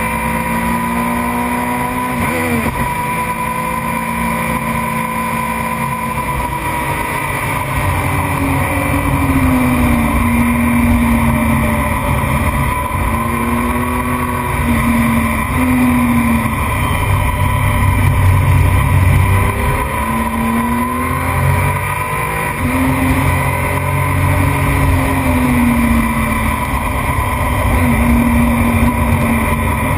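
Racing motorcycle engine at full race pace, heard up close from onboard the bike. It revs up and drops back over and over as the rider accelerates, shifts gears and slows for corners.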